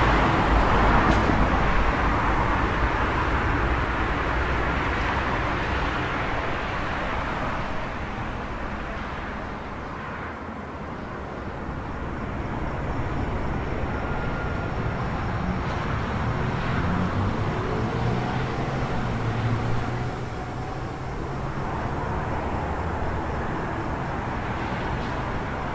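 City street traffic ambience: a vehicle that is loud at the start fades away over the first several seconds, then the steady wash of road traffic builds again with another engine passing in the second half.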